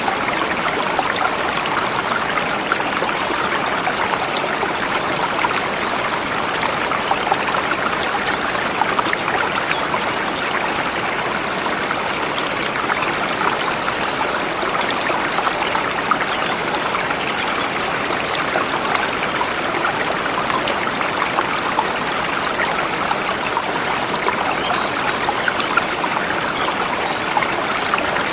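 A forest river flowing over rocks: a steady, unbroken rush of water.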